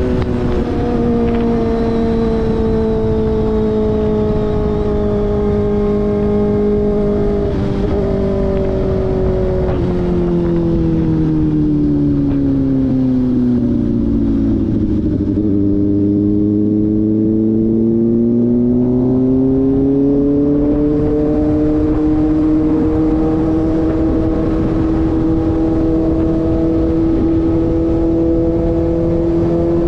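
Kawasaki ZX-4RR's inline-four engine running through an SC-Project slip-on exhaust. Its pitch falls slowly as the bike rolls off for about fifteen seconds, then rises as it pulls away again and settles at a steady cruise.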